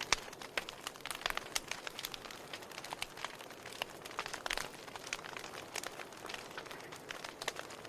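Wood fire burning, its logs crackling and popping in sharp irregular snaps over a soft steady hiss.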